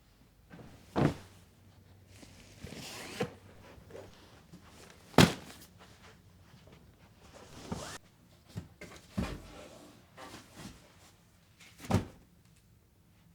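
A handful of separate knocks and thuds, the loudest about five seconds in, with brief rustling between them: household things being handled, moved and set down during tidying.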